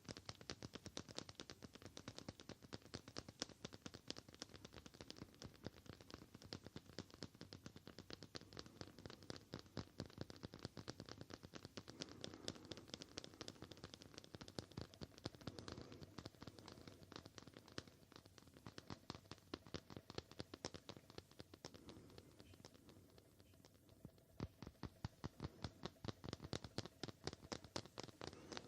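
Fast, continuous ASMR tapping: many light taps a second with a scratchy edge. There is a short lull about twenty-two seconds in before the tapping picks up again.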